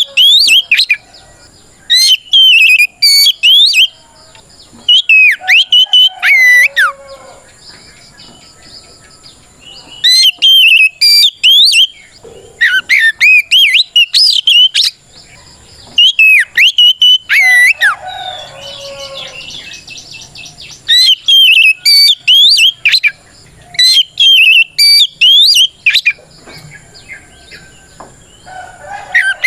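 Oriental magpie-robin (kacer) singing a loud, full challenge song of fast, clear whistled notes. The notes come in phrases of a second or two, with short pauses between them. A soft, rapid scratchy chatter comes between phrases about two-thirds of the way through.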